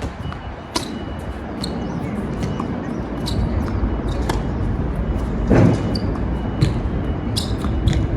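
Tennis rally: tennis balls struck by rackets and bouncing on a hard court, sharp knocks every second or so, with one louder hit about five and a half seconds in. Strong wind rumbles on the microphone throughout.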